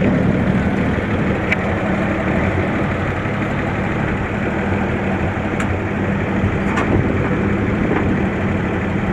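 Straight-six engine of a 1949 two-ton dump truck idling steadily.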